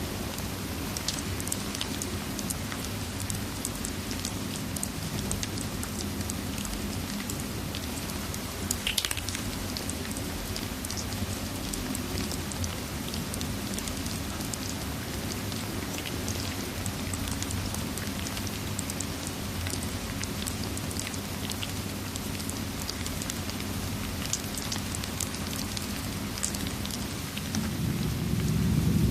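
Steady rain hissing, with a fireplace crackling in scattered sharp pops, one louder pop about nine seconds in. Low thunder begins to rumble in near the end.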